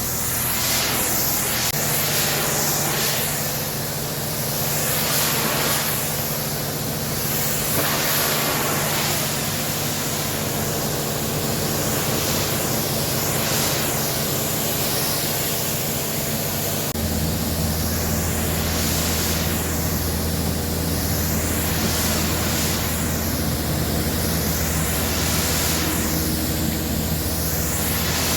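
Pressure washer spraying water, a steady hiss whose tone sweeps as the jet moves, over the steady hum of its pump motor, which shifts to a lower pitch about two-thirds of the way through.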